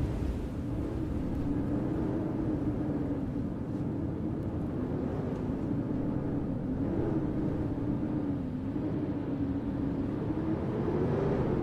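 Steady low rumble with a droning motor hum that wavers slightly in pitch.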